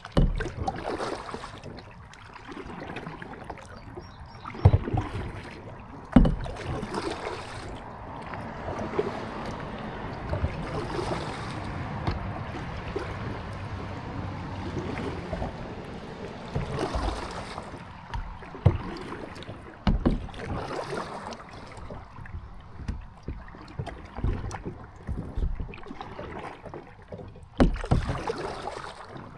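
Kayak paddling: repeated paddle strokes swishing and splashing in the water, with several sharp thumps scattered through.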